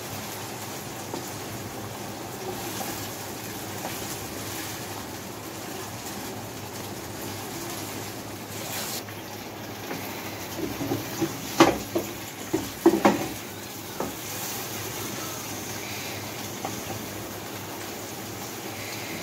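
Chicken pieces and ginger-garlic paste sizzling steadily in hot oil in a non-stick pan. A little past halfway, a wooden spatula knocks and scrapes against the pan several times as the pieces are stirred.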